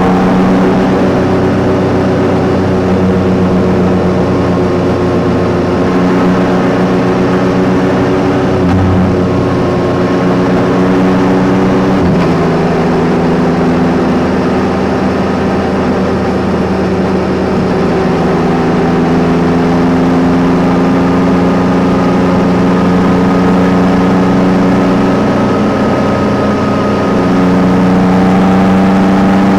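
Yamaha Tracer 9 GT's inline three-cylinder engine running while riding, holding fairly steady revs. The pitch drops suddenly about twelve seconds in, then climbs gently and steps up again near the end.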